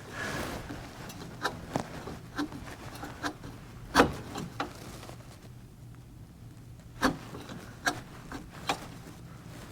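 Scattered clicks, taps and rubbing of a spin-on engine oil filter being screwed on and snugged down by hand, with a low steady hum underneath.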